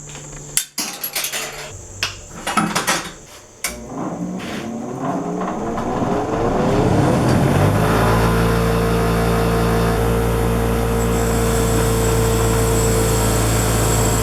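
Several sharp metal knocks and clanks, then an electric power tool's motor winding up over about four seconds and running at a steady speed.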